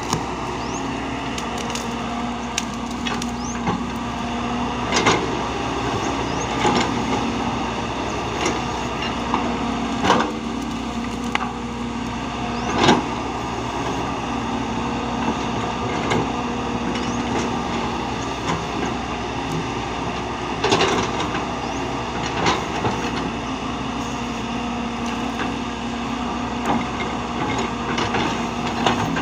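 A heavy machine's engine running steadily, with irregular sharp cracks and knocks every second or so, the loudest about ten and thirteen seconds in and again near twenty-one seconds.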